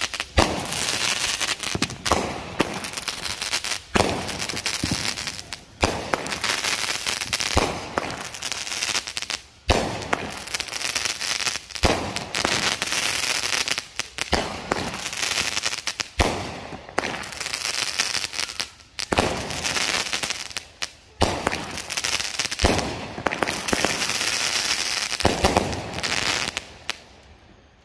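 Multi-shot consumer aerial firework firing a long volley: sharp launch and burst reports every second or two, with a steady crackle between them. It dies away about a second before the end.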